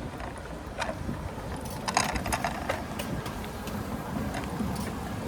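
Bicycle being ridden, its parts rattling and clicking in irregular sharp ticks over a steady low rumble of road and wind.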